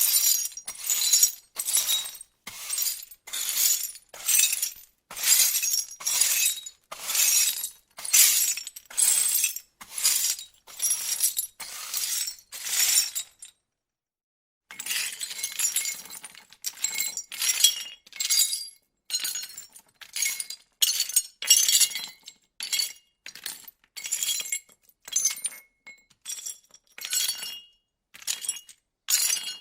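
A rapid run of separate glass-breaking sound effects, each a short, sharp smash, coming about every 0.7 s. There is a brief gap a little before halfway. After it the breaks are shorter and ring with the clink of glass pieces.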